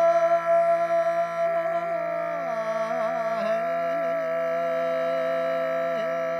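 Mongolian khoomei throat singing: one steady low drone with a bright, whistling overtone above it that wavers in a slow melody, shifting to new pitches about halfway through.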